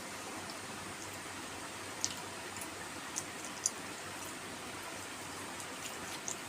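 Steady background hiss with a few small, sharp, wet clicks, about two to four seconds in, of someone eating: lip smacks and chewing while eating kheer with puri.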